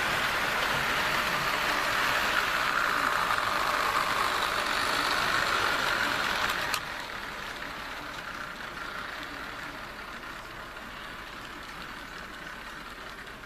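HO-scale Jouef RTG Turbotrain model train running on its track, a steady motor whine and wheel noise. About seven seconds in there is a sharp click, and the running sound carries on noticeably quieter after it.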